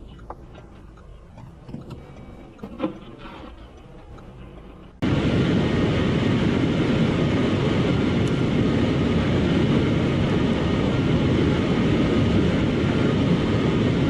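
Faint clicks and knocks, then, about five seconds in, an abrupt cut to loud, steady road and engine noise of a moving vehicle.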